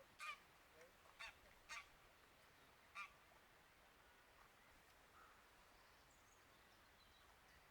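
Faint, distant honking of geese: four short calls in the first three seconds, then only quiet background.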